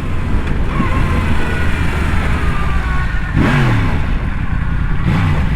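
Motorcycle engine running hard at highway speed, heard from on the bike over wind rush; its pitch drops sharply about three and a half seconds in.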